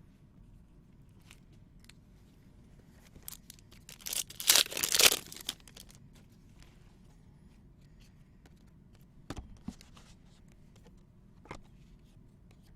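Trading card pack wrapper being ripped open: one loud tearing burst about four seconds in, lasting about a second and a half. Faint clicks and rustles of cards being handled come before and after it.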